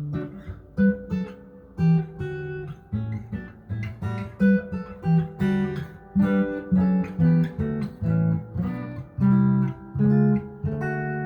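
Guitar noodling: an improvised lead line of single plucked notes and small chord shapes, about two to three notes a second, each note ringing briefly before the next.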